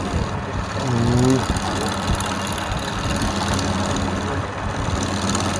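A wood lathe's electric motor running steadily with a low hum, the machine noise staying even throughout. A short pitched sound, like a brief voice, comes about a second in.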